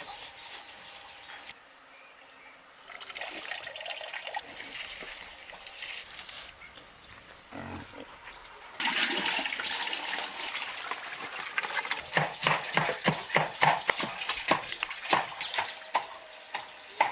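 Wet rice-and-vegetable slop pouring into a trough with a loud splashing rush, then pigs eating noisily with a run of sharp, irregular wet smacks, roughly three a second.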